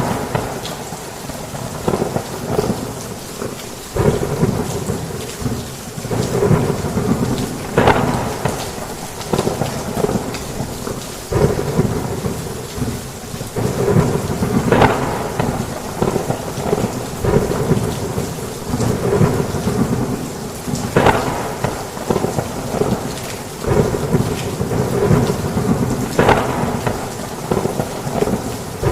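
Heavy rain falling steadily, with rolling thunder rumbling and swelling every few seconds.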